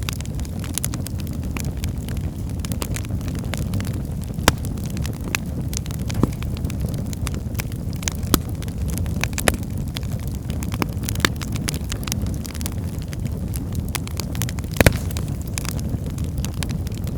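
Wood fire burning in a fireplace: a steady low rumble of flames with scattered sharp crackles and pops from the burning logs, a few louder pops among them.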